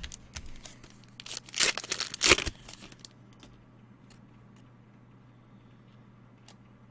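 Crinkling and tearing of plastic trading-card packaging in a few short bursts between about one and a half and two and a half seconds in, then only faint clicks and handling.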